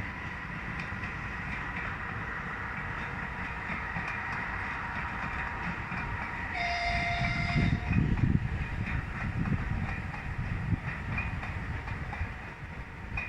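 TU10 narrow-gauge diesel locomotive running with its train, with a steady hum. Just past halfway it sounds its horn once for about a second, and a heavier low rumble follows.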